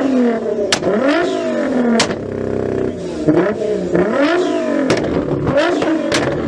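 Performance car engine revving hard again and again, its pitch climbing and dropping with each blip. There are sharp cracks at the top of several revs, about four in all.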